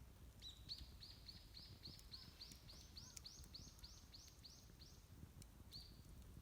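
A small songbird singing faintly: a fast run of about seventeen repeated high, arched notes, roughly three or four a second, for about five seconds, then a single note near the end. A low steady outdoor rumble lies underneath.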